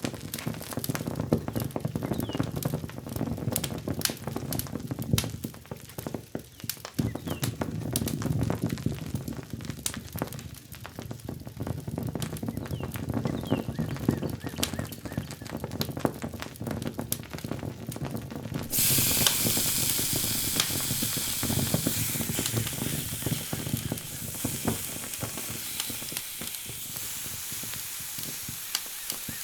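Food frying in a pan on a camp stove: crackling and clicking over a low rumble, then a sudden loud sizzle about two-thirds of the way through that carries on steadily.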